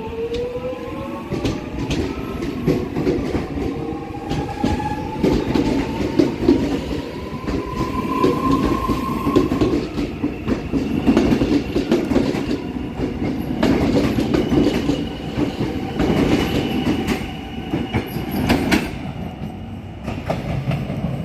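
Electric suburban train pulling out of the station: its motor whine rises in pitch as it accelerates, and the wheels clatter over rail joints and points as the carriages pass and move away.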